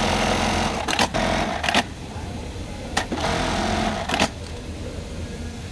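Brother bartack industrial sewing machine running two short stitching cycles, the first ending about two seconds in and the second starting about three seconds in and stopping just over a second later, each cycle ending with a sharp click.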